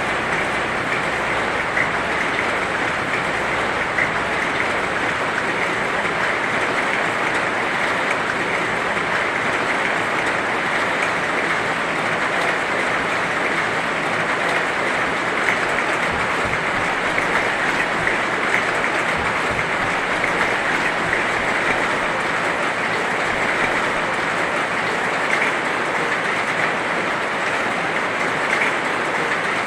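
Heavy rain falling steadily: an even hiss of downpour with small scattered drop hits.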